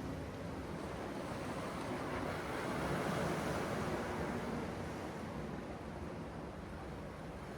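Sea waves washing on the shore with some wind, a steady rush that swells about three seconds in and slowly eases off.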